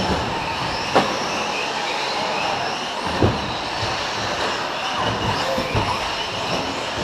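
Several electric 4WD short course RC trucks racing, their brushless motors giving overlapping high whines that rise and fall with the throttle. Sharp knocks about a second in and just after three seconds, from the trucks landing or striking the track.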